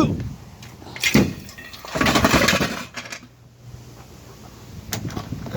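Aluminium pots and cookware clanking as they are handled: a sharp knock about a second in, a longer noisy stretch around two seconds in, and a sharp click near the end.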